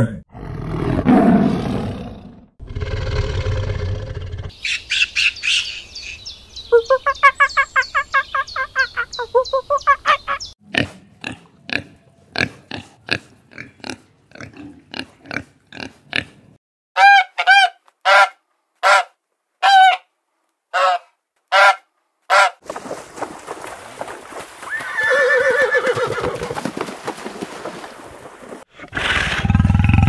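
Different animals' calls one after another, each cut off abruptly: stretches of pitched calls, a quick run of short grunts, about eight loud, evenly spaced calls, and a big cat's roar starting near the end.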